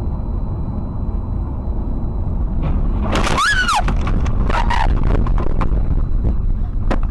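Car collision heard over steady road rumble: about three seconds in, a brief squeal rises and falls in pitch, and a quick run of crunching impacts follows over the next few seconds.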